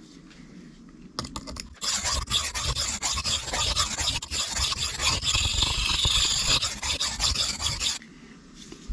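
Steel knife blade ground on a coarse Sharpal 162N diamond sharpening plate: a harsh, rasping scrape made of quick back-and-forth strokes, starting about a second in and stopping abruptly near the end. The blade is being reprofiled on the coarse diamond to grind out chips in the edge.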